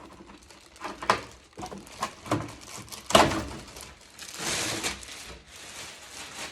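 Cardboard box and packaging being handled: a few sharp knocks and thumps, then a couple of seconds of rustling and scraping about four seconds in.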